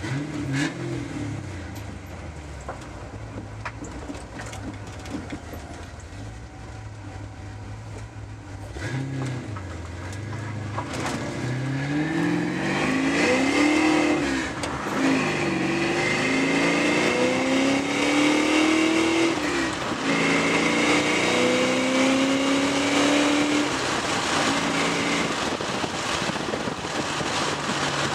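1995 Mustang Cobra's 308-cubic-inch V8, with ported Edelbrock heads and intake, a Steeda cam and a Bassani exhaust, running at low steady revs. About nine seconds in it accelerates hard up through the gears, the pitch climbing and dropping back at each shift, then eases off near the end.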